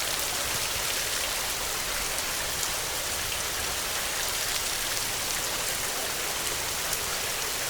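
Heavy rain falling: a steady, even hiss with scattered fine drop ticks.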